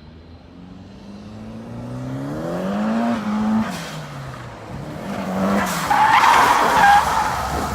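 A drift car's engine revving up for a few seconds, easing off, then revving again as the tyres squeal in a slide near the end.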